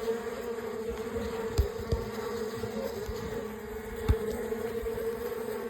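Honeybee colony buzzing in a steady hum over an opened hive, with a few soft knocks about one and a half, two and four seconds in.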